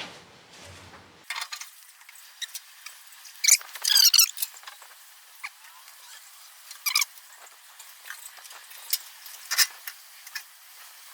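Scattered sharp clicks and short squeaks from parts and tools being handled, with the loudest cluster of squeaks about three and a half to four seconds in.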